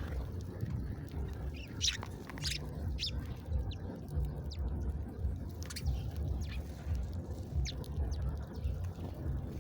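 Small songbirds giving scattered short, high chirps, several spread across a few seconds, over a steady low rumble.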